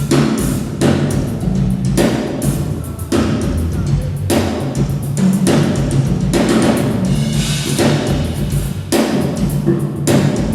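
Drum kit played continuously in a sound check, with a cymbal-crash accent about once a second over kick drum and a steady low-pitched backing.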